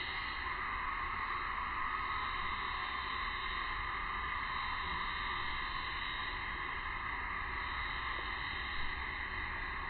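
Steady, even high-pitched drone of summer insects, most likely a cicada chorus, unbroken throughout.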